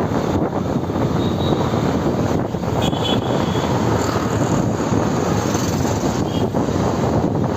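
Steady rush of wind on the microphone mixed with the engine drone of a moving motorbike.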